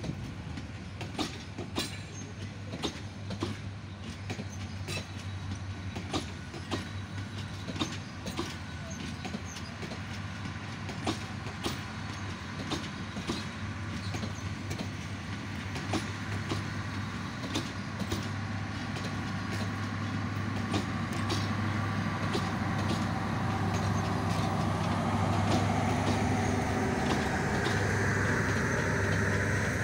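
Metre-gauge passenger train running past, its wheels clicking over rail joints in an irregular clatter over a steady low hum. The running noise grows louder over the last ten seconds or so.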